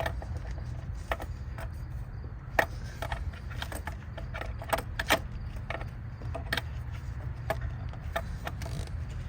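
Hands twisting and pulling a rubber vapor hose off an EVAP purge valve in a car's engine bay: scattered small clicks and knocks of plastic and rubber, about one or two a second, over a steady low rumble.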